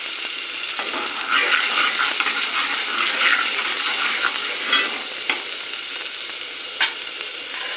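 Garlic, ginger and spice powder sizzling in hot oil in a metal pot. A steel spoon scrapes and clinks against the pot as the masala is stirred in, with one sharp clink near the end.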